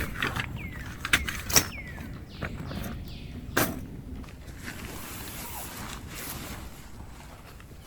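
Camp gear being handled during tent pitching: a few sharp clicks and knocks over rustling, with several short falling chirps early on and a stretch of soft hiss later.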